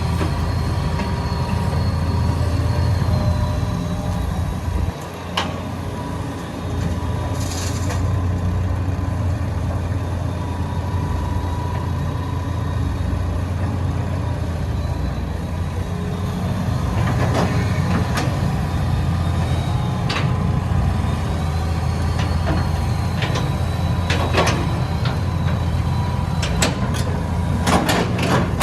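Hitachi EX200 excavator's diesel engine running steadily under a faint whine that rises and falls. Sharp knocks and clanks come now and then from about two-thirds of the way in and grow thicker near the end.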